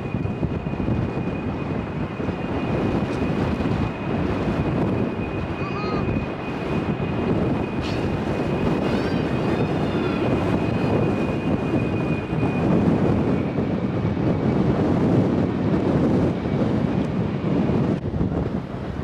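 Strong wind buffeting the microphone over the noise of a jet airliner's engines, with a thin steady high whine that fades out about two-thirds of the way through. A few short chirps and a single sharp click sound in the middle.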